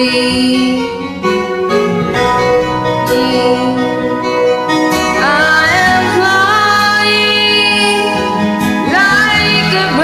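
Karaoke singing: a solo voice singing over a recorded instrumental backing track, with the vocal line strongest in the second half.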